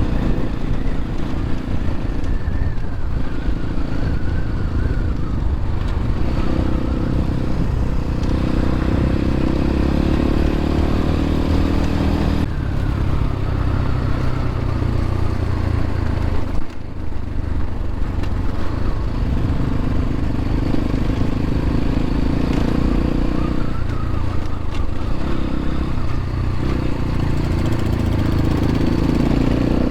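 X-Pro Templar X 250 dirt bike engine running under way on a dirt road, its note shifting with the throttle and dipping briefly about halfway through. Wind rushes over the microphone throughout.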